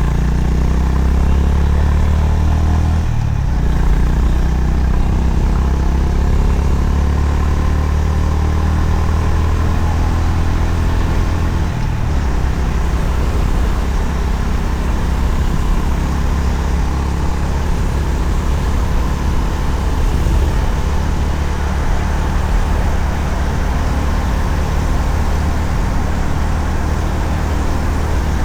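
Honda CB350RS single-cylinder engine running on the move, with heavy wind rush on the microphone. The engine note shifts a few seconds in and again about halfway.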